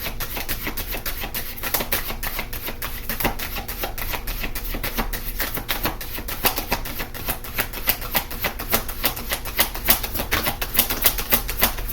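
Tarot cards being shuffled by hand: a quick run of papery clicks and flicks, busier in the second half.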